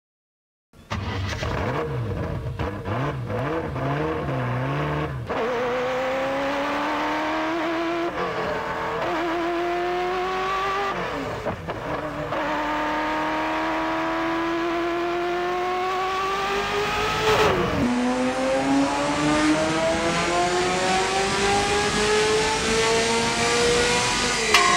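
Car engine accelerating through the gears: its pitch climbs steadily and drops sharply at each of about four gear changes.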